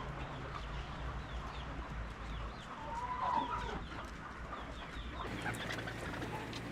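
Chickens clucking and calling, with one louder, drawn-out call about three seconds in.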